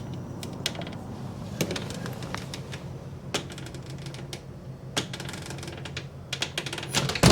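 A storm door being tried out on its newly fitted door closer: scattered clicks and light knocks from the door and its hardware, then a quick run of clicks and a louder knock at the end as the door comes shut. A steady low hum runs underneath.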